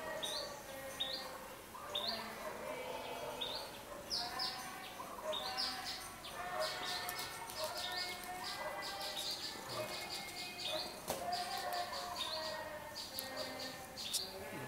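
Several birds chirping and calling: many short, quick rising chirps over lower, briefly held notes.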